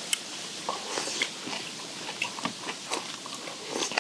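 People chewing steamed skate with bean sprouts, with small irregular crunches and clicks as the skate's cartilage is bitten through.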